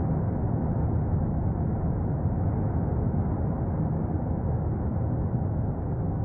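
Steady low rumbling roar of the erupting Cumbre Vieja volcano, continuous, with no separate blasts.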